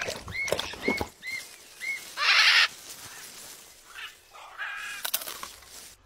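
Bird calls: four short chirps that rise and fall in the first two seconds, with a few clicks among them. About two seconds in comes a brief harsh squawk, the loudest sound, and a shorter call follows near the end.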